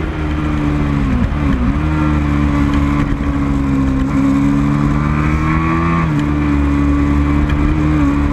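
Racing motorcycle engines running hard: a steady engine drone that dips briefly in pitch about a second in and settles lower around six seconds in.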